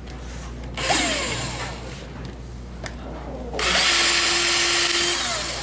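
Electric hand drill boring into a wood block to widen a hole with a larger bit, in two runs: a short one about a second in, then a longer steady run from about three and a half seconds that tails off near the end.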